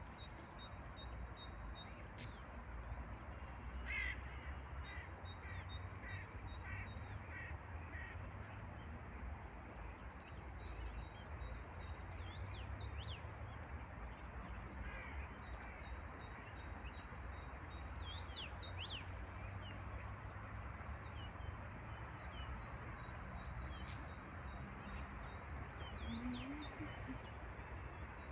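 Steady rain hiss with a crow cawing in a run of about eight calls a few seconds in, and small birds chirping now and then.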